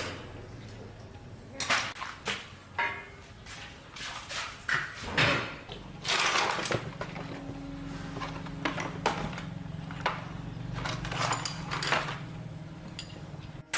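A string of sharp knocks and clunks, then from about six seconds a steady low hum that runs almost to the end.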